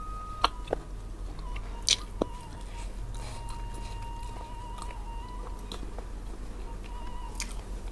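Close-miked mouth sounds of someone chewing food. A few sharp wet clicks and smacks come in the first couple of seconds and another near the end.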